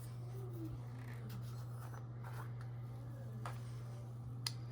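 Quiet handling of painting supplies: light scrapes and a few small clicks, with one sharp tick near the end, over a steady low hum.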